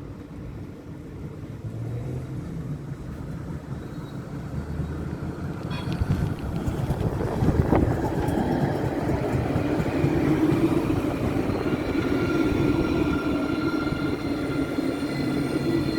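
Electric city tram drawing near, its rumble on the rails growing louder over the first half, then running close by with a steady high electric motor whine and a sharp knock about halfway through.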